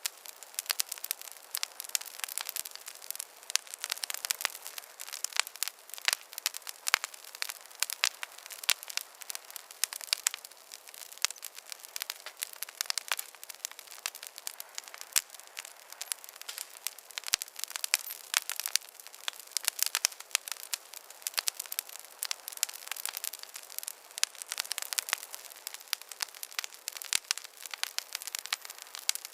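Campfire crackling: a steady stream of sharp snaps and pops over a soft hiss of burning wood.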